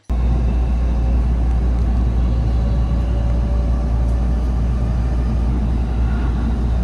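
A train running, a loud steady low rumble with a hiss over it, cutting in abruptly.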